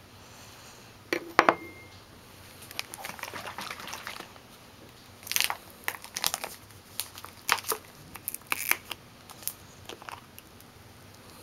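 Crispy breaded fish sticks crunching as they are bitten and chewed close to the microphone: a couple of sharp cracks about a second in, a softer crackle, then a run of irregular crunches.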